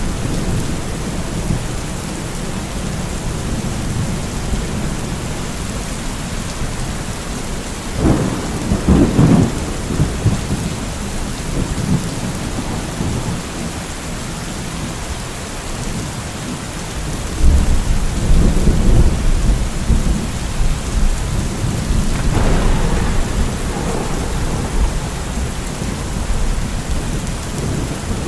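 Steady rain in a thunderstorm, with rolls of thunder rumbling up about 8 seconds in, again from about 17 seconds, and once more near 23 seconds.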